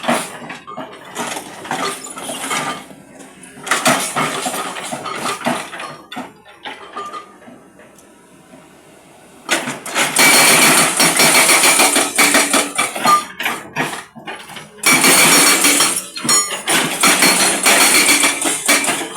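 Hydraulic breaker on a Hyundai Robex 215 excavator hammering concrete. It comes in short bursts, goes quieter for a few seconds, then hammers rapidly in two long runs, starting about halfway through and again a few seconds later.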